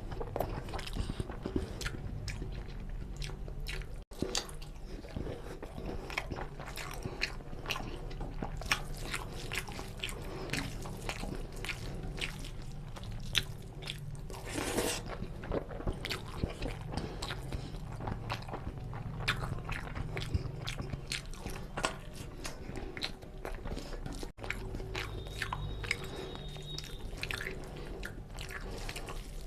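Close-miked chewing and biting of a person eating rice with chicken curry by hand: many short, wet mouth clicks and lip smacks, with some crunch.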